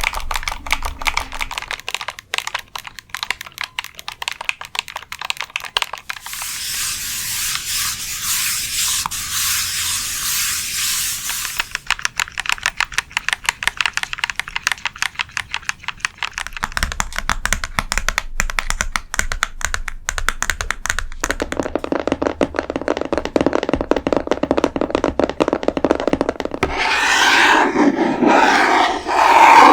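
Fast fingernail tapping and scratching on objects, switching texture every several seconds. There is a stretch of steady scratching about a quarter of the way in, and a louder crinkly rustling near the end.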